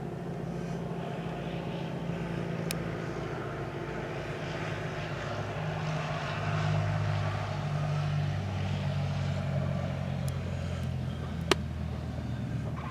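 Propeller aircraft engine running at a distance, a steady low drone that swells for a few seconds in the middle. A single sharp click comes near the end.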